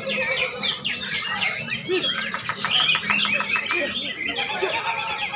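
Many caged songbirds singing at once, a dense jumble of quick chirps, trills and sweeping whistles overlapping without a break.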